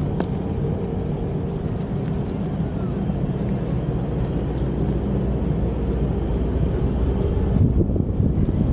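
Steady low rumble with a faint steady hum over it.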